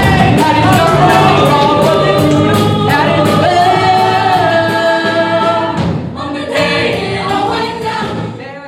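Music with a group of voices singing together over a steady beat, fading near the end.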